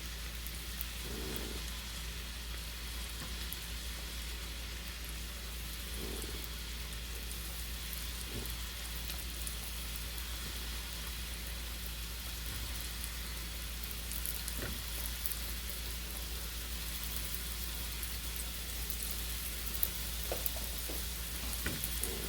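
Flour-coated chicken strips frying in olive oil in a pan: a steady sizzle with fine crackling, over a low steady hum. A few light knocks come near the end.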